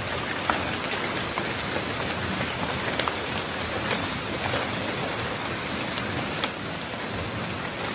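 Steady rushing of strong wind through the trees and foliage, with scattered light ticks.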